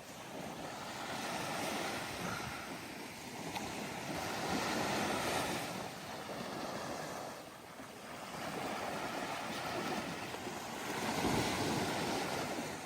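Surf washing in on a sandy beach: a steady wash of waves that swells and recedes three times.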